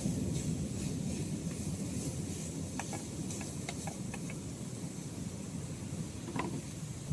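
Small wood campfire crackling, with a few sharp pops, the clearest about three and six seconds in, over a steady low rushing noise.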